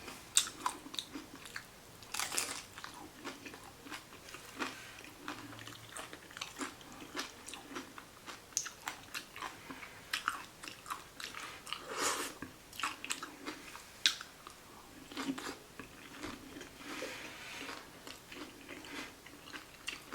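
Close-miked chewing of a vegan salad taco: many small crunches and wet mouth clicks, with louder crunchy bites about two seconds in and again about twelve seconds in.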